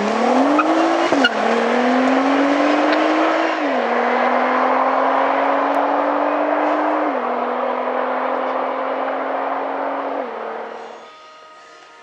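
Nissan GT-R's twin-turbo V6 accelerating hard through the gears: the engine pitch climbs and then drops at each of four upshifts, before the sound falls away near the end.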